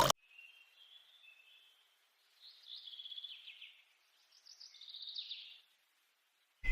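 Running water cuts off abruptly right at the start, then faint birds chirping in two short twittering phrases, about two and a half and four and a half seconds in.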